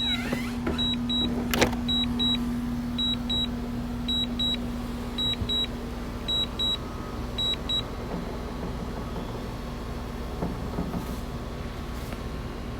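Electronic warning beeper sounding high-pitched double beeps, about one pair a second, over a steady low hum; the beeping stops about eight seconds in. A single sharp click comes near the start.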